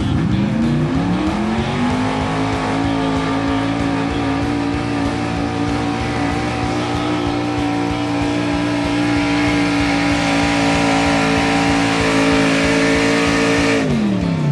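Tractor engine at a tractor pull, revving up over the first two seconds and then held at steady full throttle while pulling the sled, before being throttled down sharply near the end as the run finishes.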